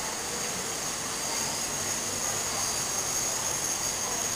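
Steady rushing noise of an indoor waterfall falling into a pool, even and unbroken, with a thin high hiss over it.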